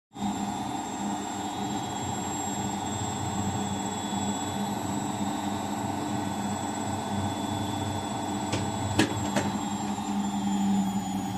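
Bosch Avantixx 6 washing machine running with a steady mechanical hum, its drum motor spinning at a constant speed near the end of its quick wash cycle. A couple of sharp clicks about nine seconds in.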